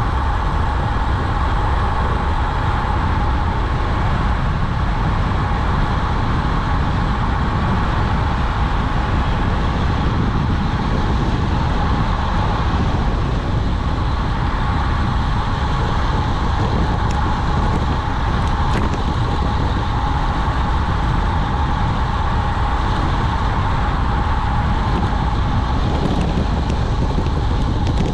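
Steady rush of wind over the microphone with road and tyre rumble, as on a road bike descending at speed; the noise holds unbroken throughout.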